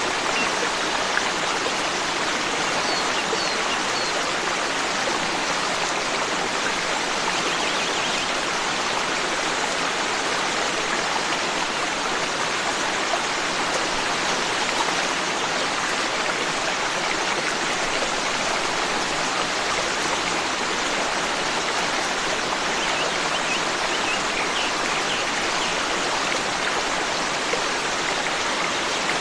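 Forest stream flowing steadily over rocks, with a few faint bird chirps a few seconds in and again near the end.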